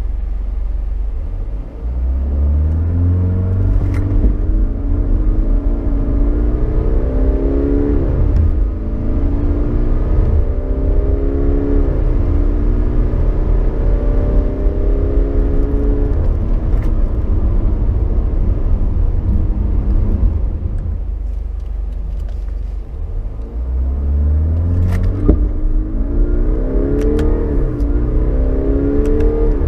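Heard from inside the cabin: a 2018 Jaguar XF 20d's 2.0-litre four-cylinder turbodiesel accelerates hard from a standstill. Its note climbs and drops back at each of several upshifts of the automatic gearbox, then eases off about 20 s in. A second full-throttle pull starts a few seconds later, with another upshift near the end.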